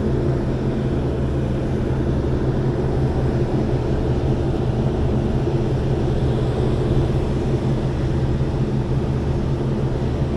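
Belt-driven rooftop fan unit running, a steady loud drone with a low hum.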